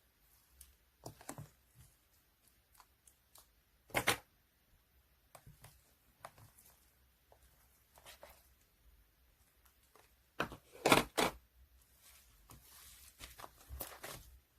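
Pink liquid slime being squished and pulled by hand: irregular sticky clicks and small pops, with louder crackling squishes about four seconds in and again around eleven seconds in.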